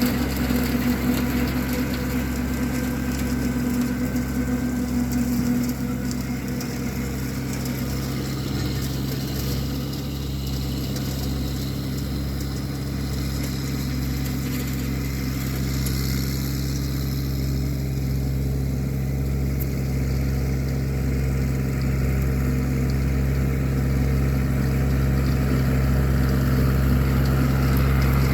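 Massey Ferguson 1725 compact tractor's diesel engine running steadily under load while it drives a 4-foot rotary brush cutter. The sound eases a little about six seconds in and slowly builds again toward the end.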